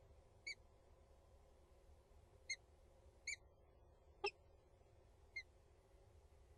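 Peregrine falcon calling: five short, sharp calls a second or so apart, the fourth the loudest.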